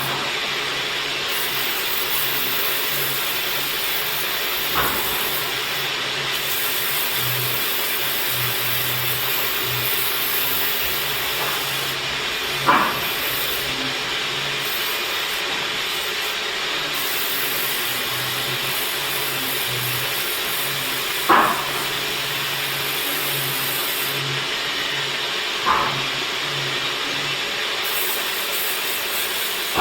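Woodworking machine running steadily with a constant hissing noise and a low hum, broken by a short, sharp sound about every five to eight seconds.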